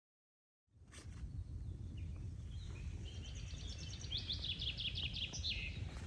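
Silence, then about a second in a low steady rumble of outdoor background noise comes in, over which a songbird sings a fast run of repeated, falling notes ending in a lower flourish.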